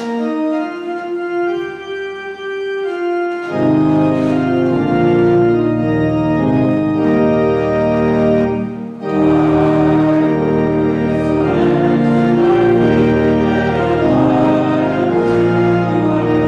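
Church organ playing the gospel acclamation, sustained chords that start light and thicken into a full sound with deep bass notes about three and a half seconds in, with a brief break just before the ninth second.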